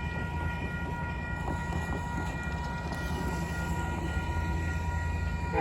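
Grade-crossing warning bell ringing steadily over the low rumble of approaching diesel freight locomotives.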